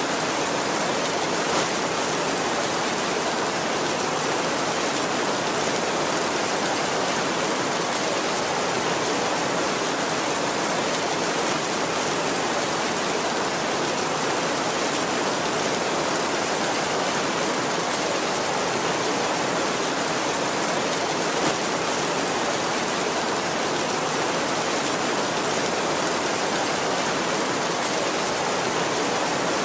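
Heavy rain falling steadily on a tin roof, an even, unbroken hiss at a constant level.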